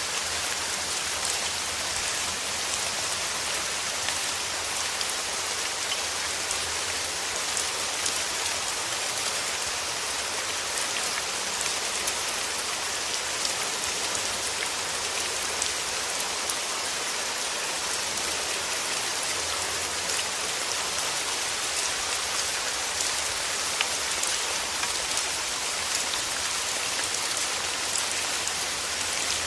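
Steady rain falling on a surface: an even hiss with many small scattered drop ticks.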